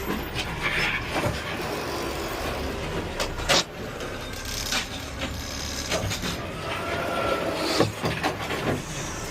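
Peterbilt 520 automated side-loader garbage truck heard from the driver's cab: a steady engine rumble with several sharp knocks and clanks, the loudest about three and a half seconds in.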